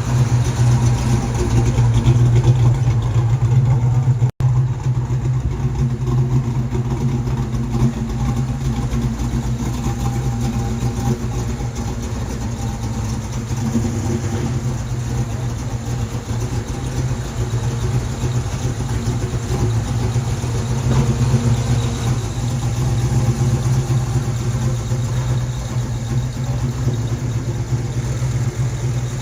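A car engine idling close by with a steady, lumpy low note. The sound cuts out for an instant about four seconds in.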